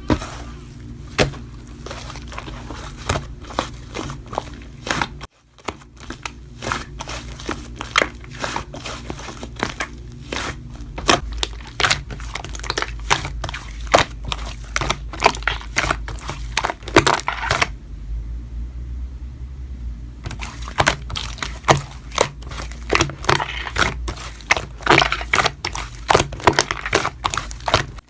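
Slime being squished and poked by hand, giving a dense run of crackling clicks and little pops from trapped air. The sound drops out briefly about five seconds in, and the clicks thin out for a couple of seconds past the halfway mark.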